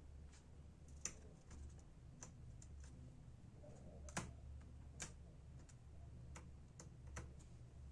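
Scattered faint clicks and taps from handling a laptop's keyboard and small plastic parts, the sharpest about a second in, at about four seconds and at about five seconds, over a low steady hum.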